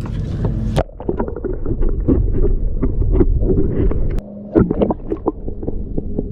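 Muffled low rumbling with a steady run of close knocks and ticks, the sound of gear and hands working on a kayak while a hooked barracuda is fought. There is a short lull about four seconds in.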